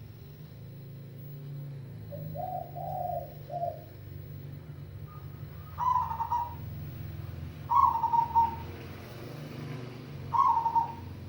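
Perkutut (zebra dove) singing: a soft run of low coo notes about two seconds in, then three loud, clear 'kung' notes about two seconds apart, each dipping slightly in pitch. A steady low hum runs underneath.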